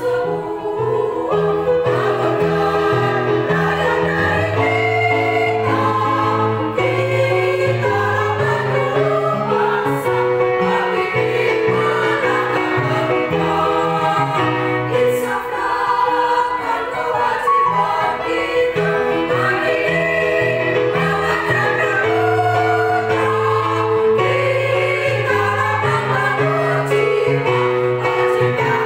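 Music with a choir singing held chords over a bass line; the chords change every second or two.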